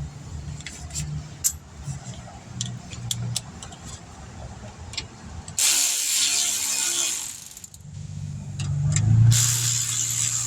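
Light clicks and knocks of hand tools and brake parts, then a power ratchet runs twice: about two seconds just past the middle, and again from near the end.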